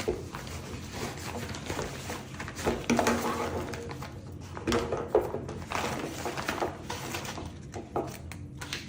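Irregular handling noise: light knocks, clicks and rustling as the trekking poles and their carrying case are handled.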